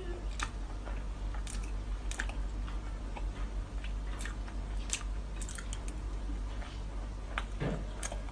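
Close-up mouth sounds of a person biting and chewing soft cake: irregular wet clicks and smacks every half second to a second, over a steady low hum.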